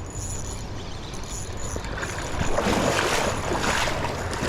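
Rushing river water, growing louder and splashier from about two seconds in.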